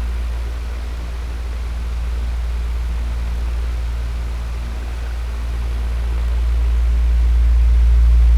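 Electric fan running steadily: a low motor drone with a soft rush of air, its level slowly dipping and swelling again over several seconds.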